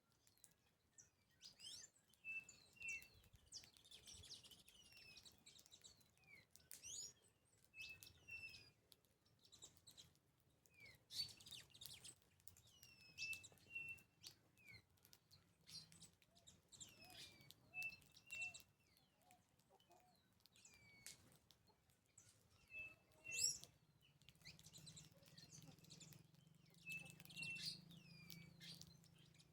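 Wild birds chirping and calling, faint. One bird repeats a phrase every few seconds: one or two short level notes followed by quick downward-sliding notes.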